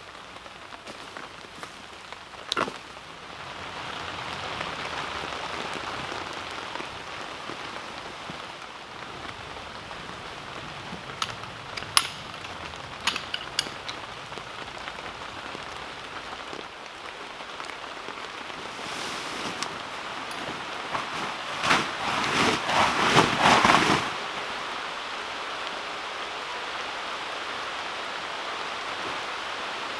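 Heavy rain pouring on a tent, a steady patter with a few sharp taps, and a louder burst of noise lasting a few seconds about two-thirds of the way through.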